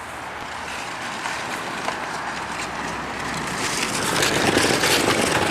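Model stock cars rolling along a built track during a lap, a steady rolling noise that grows louder over the last couple of seconds.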